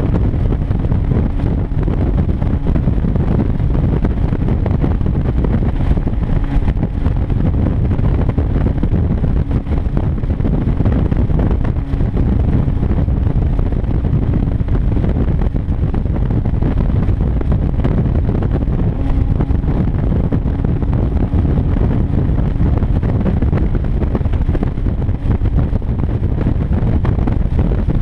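1996 Mazda Miata's 1.8-litre four-cylinder engine cruising steadily at highway speed, with a very loud exhaust note from a deliberate exhaust leak at a washer-spaced gap between the catalytic converter and the mid-pipe.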